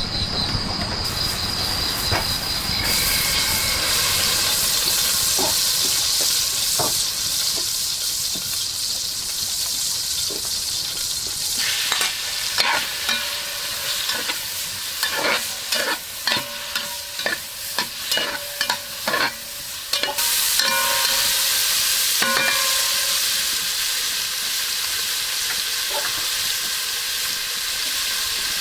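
Food sizzling as it fries in a hot pan. In the middle there is a busy run of clicks and scrapes from a utensil stirring it, and near the end the sizzling is louder and steady.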